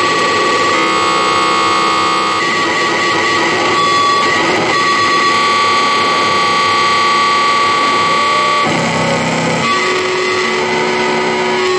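Loud, distorted electronic noise improvisation: dense layers of held, buzzing tones over a hiss, with the chord of tones shifting abruptly every second or two.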